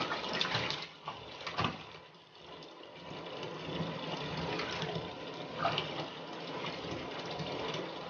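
Water running from a bathtub tap into the tub, a steady rush, with a few brief sharper sounds in the first two seconds and again near six seconds.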